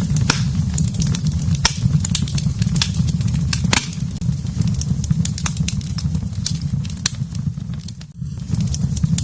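Wood fire in a fireplace crackling, with frequent sharp pops and snaps over a steady low rumble. The sound briefly drops away about eight seconds in, then comes back.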